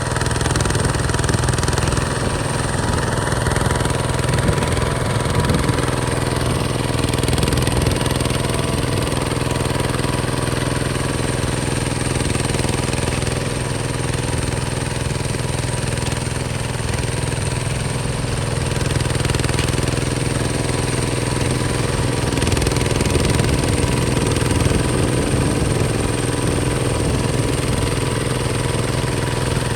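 Hinota HG Gold 155 DI tractor's diesel engine running steadily with a hard, knocking chug.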